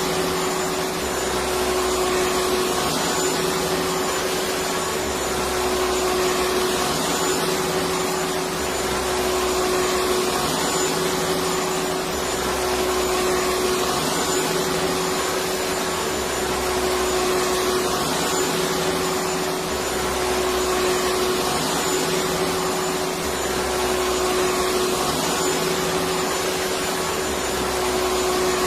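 Electric vacuum cleaner running continuously: a steady hum with hiss, swelling slightly every three to four seconds.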